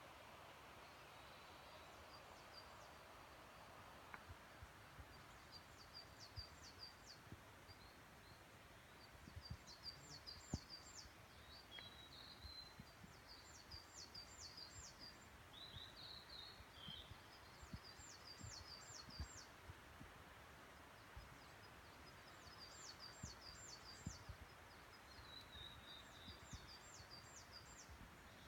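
Faint woodland birdsong. One songbird repeats a short phrase of four or five quick, very high notes every few seconds, and other birds chirp lower in between. Soft low thumps sound now and then over a steady faint hiss.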